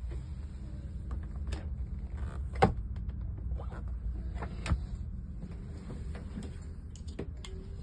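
Scania K320 coach's diesel engine running with a steady low rumble, with several sharp knocks and clacks over it, the loudest about two and a half seconds in.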